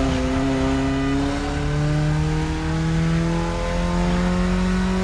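BMW E30's engine pulling under acceleration, its pitch rising slowly and steadily after a brief click at the very start.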